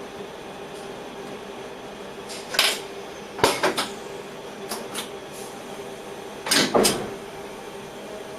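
Several sharp knocks and clattering handling sounds inside a train driver's cab, the loudest pairs about a third and four fifths of the way through, over the cab equipment's steady hum.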